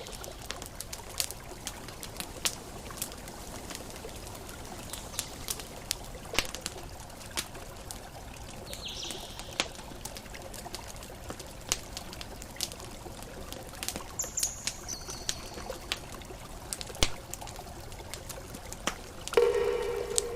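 Campfire crackling with irregular sharp pops over a steady wash of gentle ocean waves. Short high bird chirps come in about nine seconds in and again around fourteen seconds, and a louder, lower call sounds near the end.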